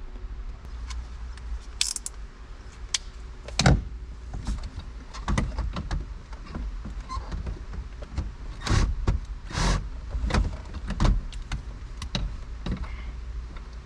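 Car interior trim being worked on by hand: scattered clicks, rattles and knocks of plastic panels, clips and tools, with one sharp knock about four seconds in and a run of louder knocks and scrapes near the end.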